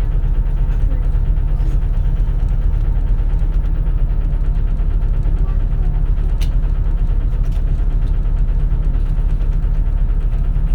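A 2004 CNG (compressed natural gas) city bus heard from inside the cabin: the engine and drivetrain run with a steady low drone, without any rise or fall in revs, and a faint click comes about six seconds in.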